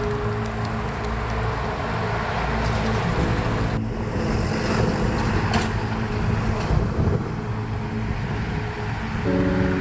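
Steady road traffic noise from a busy highway, with vehicles passing.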